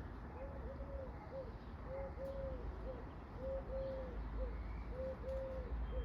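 A dove cooing: four repeated phrases, each made of two drawn-out coos and a short final note, over a steady low rumble.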